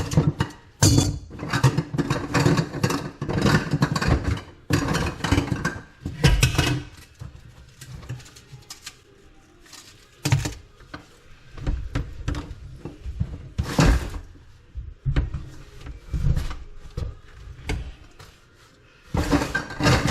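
Irregular knocking and clattering of tools and materials being handled during plumbing work. The clatter is busy for about the first seven seconds, sparse in the middle and picks up again near the end.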